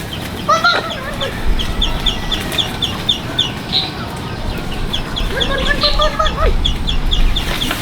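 Chickens clucking in two short runs, over a steady series of short high chirps at about four a second.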